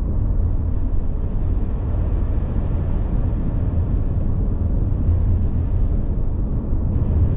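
Car driving along a road, heard from inside the cabin: a steady low rumble of tyres and engine that does not change.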